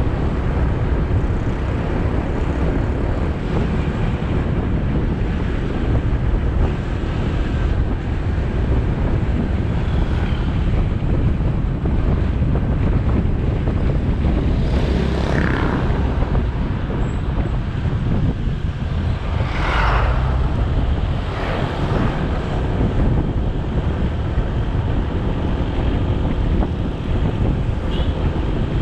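Motorbike engine running under way with wind rushing over the helmet-mounted microphone, a steady low-heavy noise. A few short, louder swells come and go a little past the middle.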